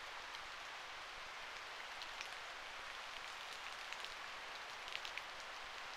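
Steady rain falling in a thunderstorm, a soft even hiss, with a few sharp raindrop ticks close to the microphone from about two seconds in. Heard faintly through a low-gain camera microphone.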